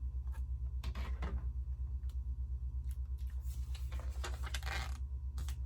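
Plastic Lego pieces clicking and rattling as the model is handled and pieces are pressed down, a few scattered clicks then a busier cluster in the second half, over a steady low hum.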